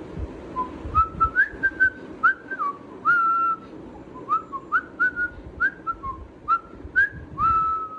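Pet crested parrot whistling a string of short, clear notes, each rising or bending in pitch, with a longer held note about three seconds in and another near the end.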